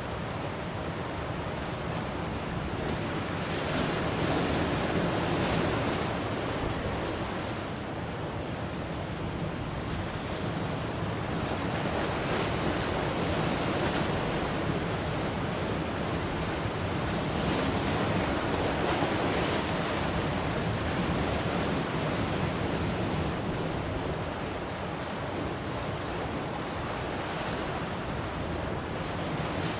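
Ocean surf breaking on a shore: a continuous wash of waves that swells and eases every several seconds.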